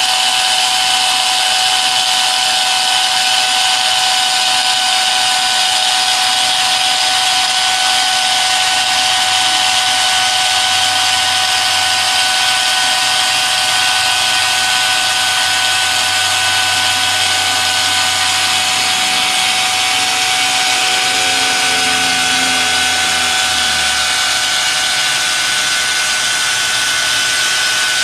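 A machine running steadily with a constant high whine over a loud hiss; a fainter, lower motor note slides down in pitch a little after twenty seconds in.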